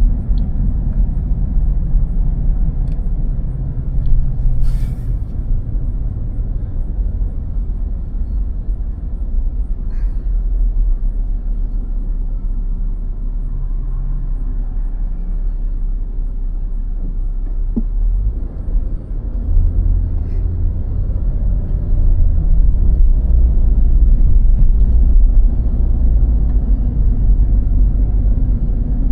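Steady low rumble of a car driving on snow-covered roads, growing louder about two-thirds of the way through, with a few faint clicks.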